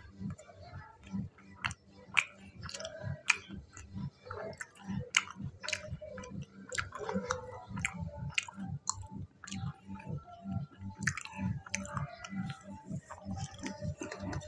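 A person chewing fried pakoras close to a clip-on mic: a regular rhythm of chews, about two to three a second, with sharp crisp clicks.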